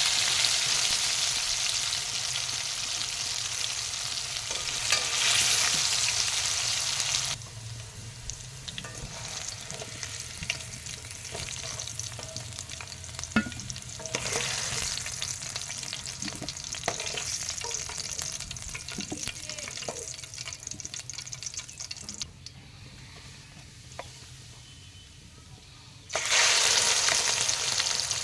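Food sizzling in hot oil in a cooking pan while it is stirred, with occasional clicks and scrapes of the spoon against the pan. The sizzle is loud for the first several seconds, drops to a softer sizzle with scattered knocks, goes quieter near the end, then comes back loud suddenly a couple of seconds before the end.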